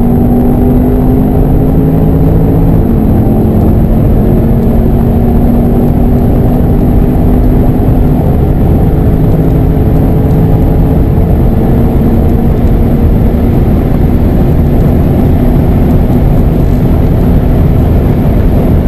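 Twin-turbo V8 of a performance SUV pulling hard at high speed, its engine note climbing slowly and steadily under heavy road and wind noise, with one gear change about three seconds in.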